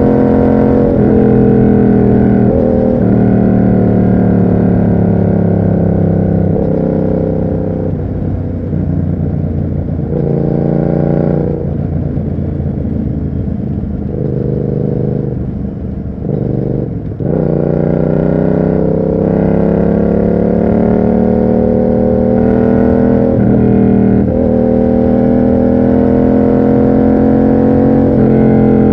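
Yamaha MT-07's parallel-twin engine through an SC Project exhaust, running on the move. It holds a steady note, then eases off with the note lower and broken up midway. After a brief sharp drop it pulls again, its pitch climbing steadily.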